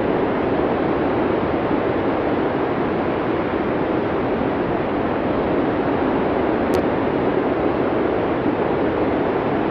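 Steady blizzard wind, an even rushing noise that never gusts or breaks. A faint tiny click sounds about seven seconds in.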